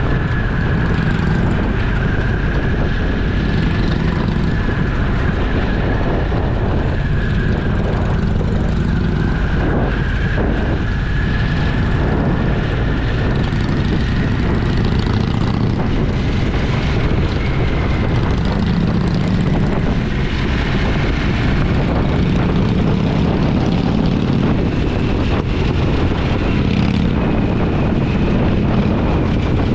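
Motorcycle engine running steadily at riding speed, with wind rushing over the camera's microphone and a thin whine that drifts slowly in pitch.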